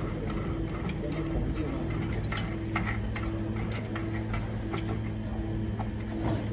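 Scattered light clicks and taps of parts and tools being handled while a screen printing machine is taken apart, over a low steady hum and a low tone pulsing on and off a little faster than once a second.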